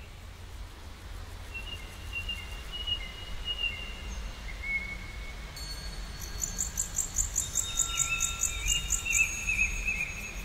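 Birds singing: thin whistled notes at first, then from about halfway a fast, high pulsing trill with a warbling call beneath it, over a low steady rumble.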